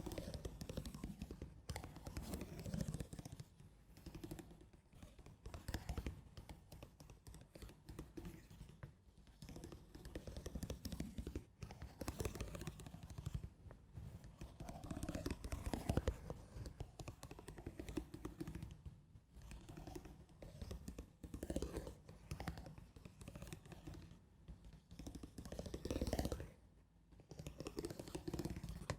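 Slow, soft ASMR scratching on a surface, in uneven grainy passes that swell and fade.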